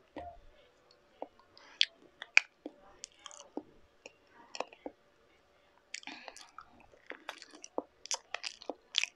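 Close-miked eating sounds of a banana: soft wet chewing and smacking mouth clicks, sparse at first and thickening over the last few seconds.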